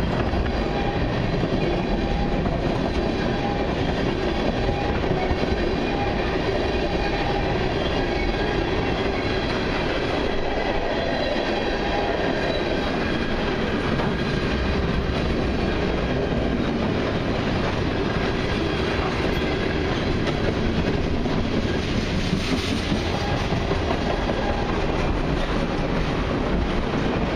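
Freight cars of a long mixed freight train (tank cars, a boxcar and a gondola) rolling past, a steady rumble with the clatter of steel wheels over the rails.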